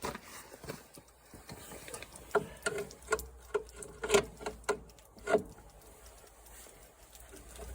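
A lawn mower being taken apart with hand tools: a run of about a dozen irregular metallic clicks and clanks in the middle, some with a short ring.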